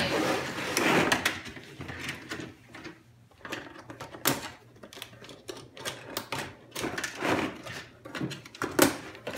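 Toy box being opened and handled by hand: irregular clicks, taps and rustling of cardboard and plastic packaging, loudest in the first couple of seconds.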